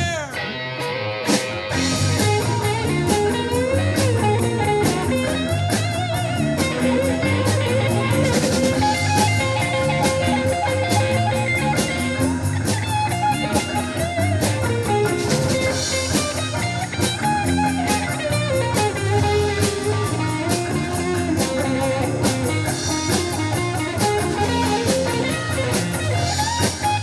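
Live rock band playing an instrumental break with no singing: guitar with bending notes over a drum kit.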